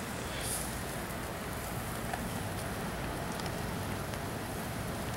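Steady rain falling: an even hiss with a few faint scattered ticks.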